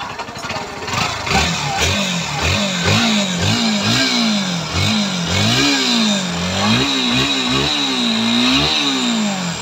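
Bajaj Pulsar NS 160's single-cylinder engine, freshly repaired with its tappet clearance reset, revved in a string of quick throttle blips, the pitch rising and falling again and again after a brief idle.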